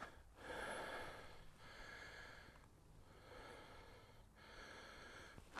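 A person breathing faintly close to the microphone, about four long breaths in and out.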